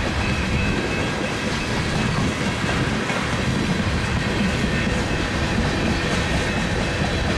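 Union Pacific mixed freight train's cars rolling past at speed: a steady rumble of steel wheels on the rails with clickety-clack.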